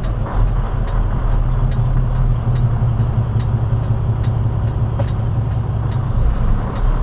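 Steady low drone of an idling diesel semi-truck, heard from the cab, with the hazard flashers ticking about twice a second.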